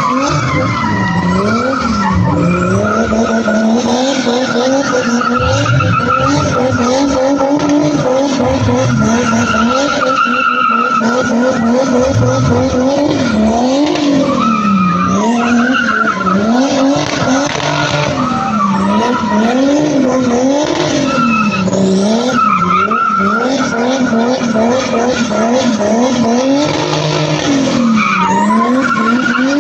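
A car drifting: its engine revs rise and fall again and again as the throttle is worked, over continuous tyre squeal.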